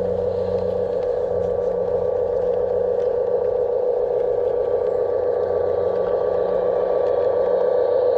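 Garden-railway model diesel locomotive running, its electric motor and gears giving a steady hum with a thin higher whine, growing gradually louder as it comes closer.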